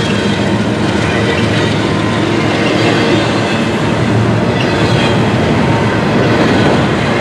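CSX double-stack intermodal train's container well cars rolling past close by: a steady rumble and clatter of steel wheels on the rails.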